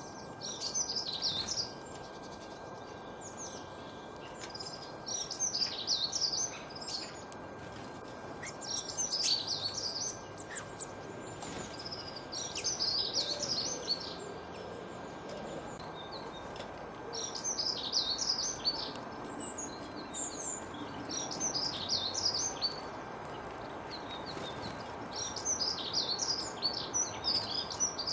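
A songbird singing short phrases of rapid, high chirping notes, about seven phrases, one every three to four seconds, over a steady background hiss.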